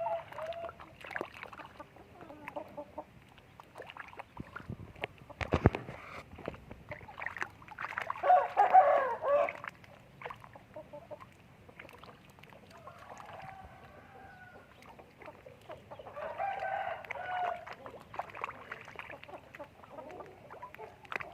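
Domestic chickens clucking, with louder, drawn-out calls about eight seconds in and again near seventeen seconds, and a single sharp knock about five seconds in.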